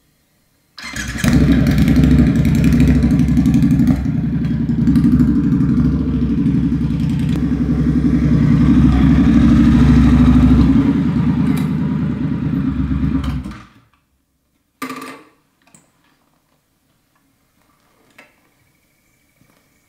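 Triumph Scrambler 1200's parallel-twin motorcycle engine running loudly for about thirteen seconds: it starts suddenly about a second in and stops abruptly. A short knock follows a second later.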